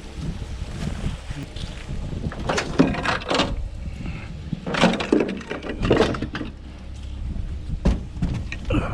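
Irregular knocks, clatter and scraping of junk being handled and shifted around, with a low rumble underneath.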